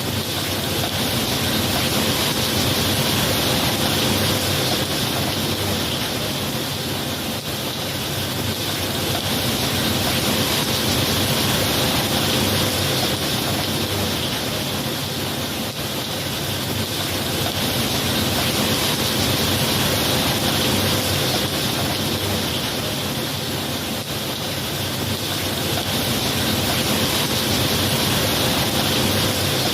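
Steady rain falling, a constant rushing hiss that swells and eases gently every several seconds.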